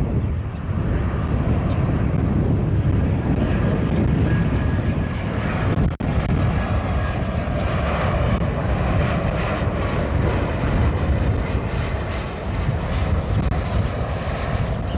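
Jet airliner engines: a deep, continuous rumble with a faint high whine over it, from a plane passing the airport spotting area. The sound cuts out for an instant about six seconds in.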